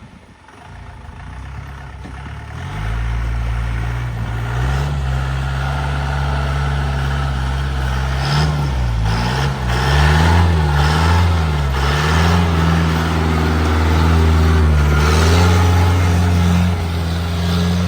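Mahindra 4x4 jeep engine pulling hard in four-wheel drive low range up a steep off-road climb. The engine note builds about three seconds in, its revs rise and fall repeatedly through the middle, then hold higher near the end.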